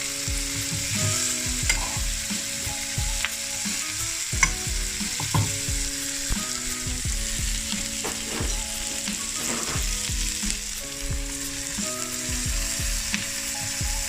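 Chicken strips, onion, carrot and red pepper sizzling as they are stir-fried in a little oil, with scattered knocks and scrapes from the stirring.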